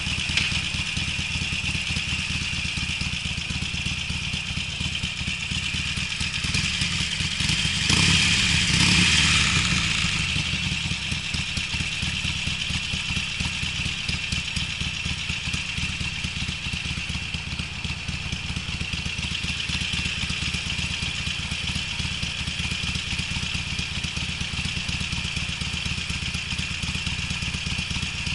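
Harley-Davidson Sportster V-twin running with a Screamin' Eagle aftermarket muffler while riding. It holds a steady note and swells louder for a couple of seconds about eight seconds in.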